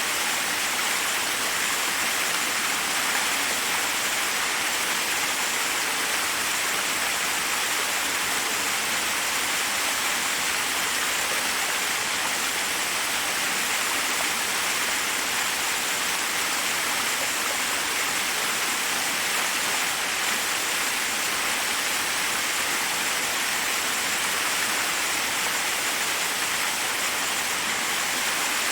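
Forest waterfall: water pouring steadily over rocks in an even, unbroken rush.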